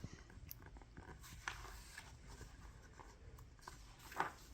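Quiet room tone with a few faint, scattered clicks and one soft rustle about four seconds in.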